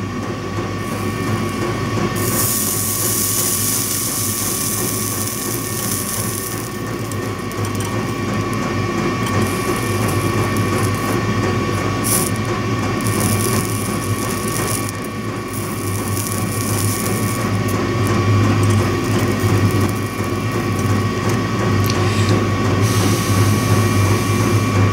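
Wire being tinned with a soldering iron: stretches of hissing sizzle as flux boils off, over a steady low hum.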